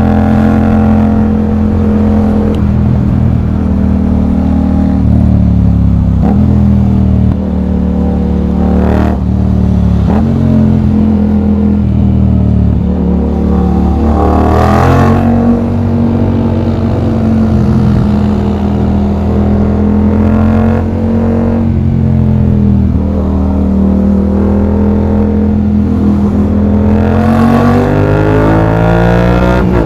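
Yamaha MT-07's parallel-twin engine through an aftermarket exhaust, heard from the rider's seat while riding. It runs steadily and rises in pitch as it accelerates several times: about nine seconds in, around fifteen seconds, and again near the end.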